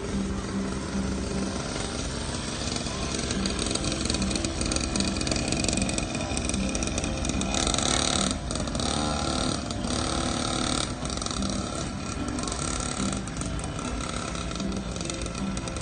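Small dirt bike engine running continuously, with voices mixed in.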